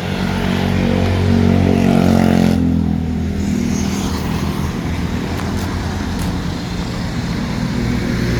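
A motor vehicle's engine running close by, getting louder over the first couple of seconds and then running on steadily, with street traffic noise around it.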